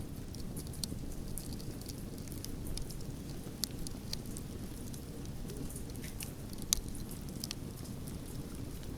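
Wood fire burning, a steady low rumble of flames under frequent sharp crackles and pops of burning wood, with one louder pop about two-thirds of the way through.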